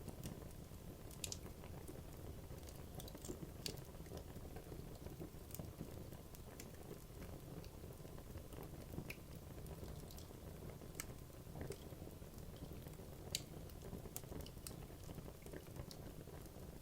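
Wood logs burning in a fireplace: a low steady rush of flame with irregular crackles and sharp pops from the burning wood.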